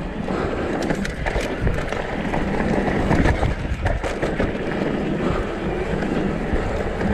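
Trek Session downhill mountain bike rolling fast over rough trail: steady tyre noise on dirt and rock, broken by frequent knocks and rattles as the bike hits bumps.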